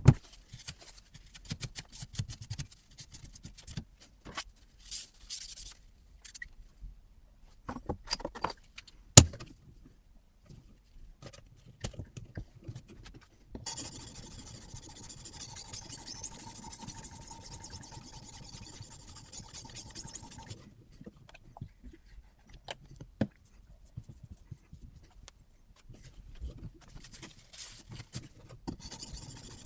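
Clicks and knocks of a guided knife-sharpening system being handled and adjusted. About 14 seconds in, a steady abrasive scraping of a sharpening stone along a carbon-steel knife edge runs for about six seconds, and the scraping starts again near the end.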